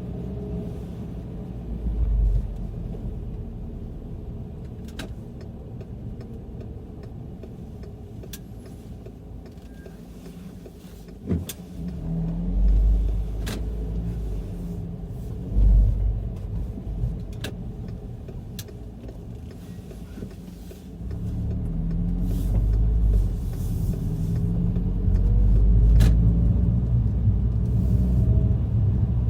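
VW Golf GTI mk5 running with a low rumble, with several sharp clunks at irregular intervals; the rumble grows louder about two-thirds of the way through. The clunk persists after new engine and transmission mounts, stabilizer links, suspension parts and CV joint, and its cause is still unknown.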